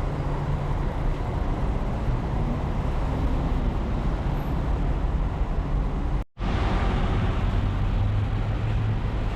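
City street traffic noise: a steady wash of passing vehicles with a low engine hum, cut off abruptly for a split second about six seconds in.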